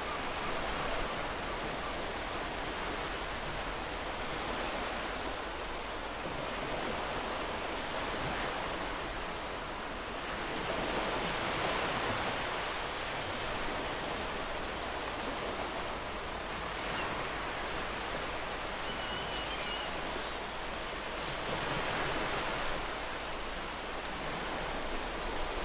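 Ocean surf washing onto a shore: a continuous rush of noise that swells as waves break, once about halfway through and again near the end.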